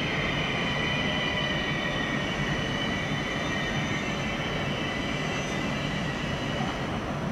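ÖBB Intercity train rolling through the station with a steady rumble, and a high-pitched squeal from the running gear that gradually fades.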